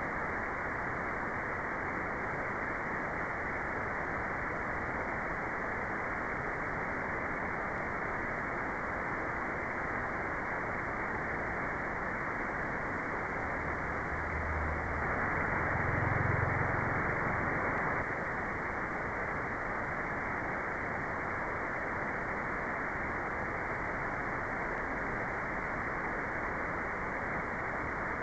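Steady white-noise track: an even, featureless hiss with little treble. It swells slightly, with a low rumble, a little past halfway through.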